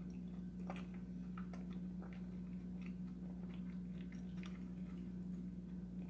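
A person chewing a mouthful of spaghetti in tomato sauce: soft, irregular clicks of mouth noise, with a steady low hum underneath.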